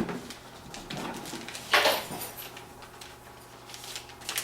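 Packaging being handled as a motherboard is taken out of its cardboard box: a sharp knock at the start, then a scraping rustle about two seconds in, with smaller handling noises between.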